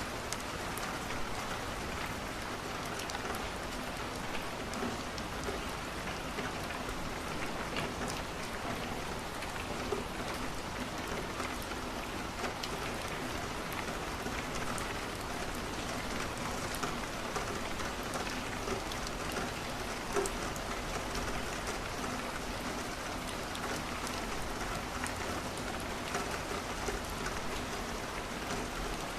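Steady rain falling on a window, mixed with a crackling wood fire: many small ticks and a few louder pops, about ten and twenty seconds in.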